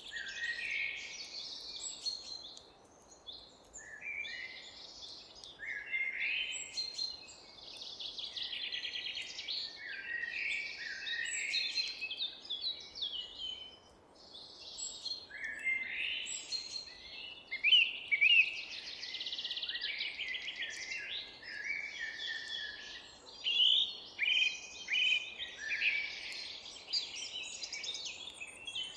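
Several songbirds singing at once in a forest, a dense chorus of overlapping chirps, trills and short whistled phrases, with brief lulls about three seconds in and near the middle.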